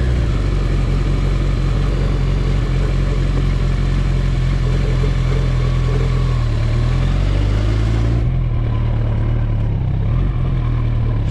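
Kawasaki ZX-14R inline-four motorcycle engine running under way, with steady wind hiss. The engine note dips and rises again about six seconds in, the hiss falls away about two seconds later, and the sound stops abruptly at the end.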